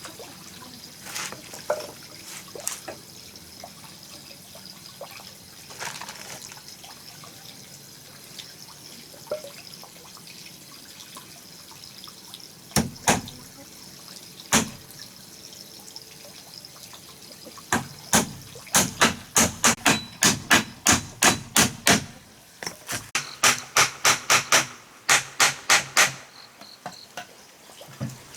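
Sharp knocks: a few scattered ones, then two quick runs of rapid strikes at about three a second in the second half. A steady high insect drone runs underneath.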